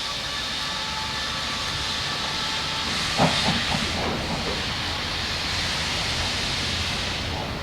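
Narrow-gauge steam locomotive hissing steadily, with a short cluster of knocks about three seconds in.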